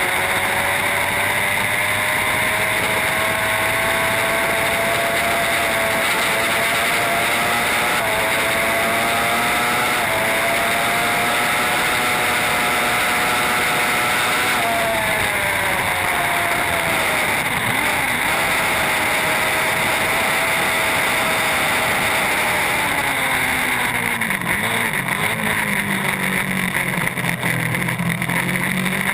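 Superbike engine running hard at high revs under a steady rush of wind noise, its pitch stepping with several gear changes in the first half. In the last few seconds a deeper engine note comes in, its pitch dipping and rising again.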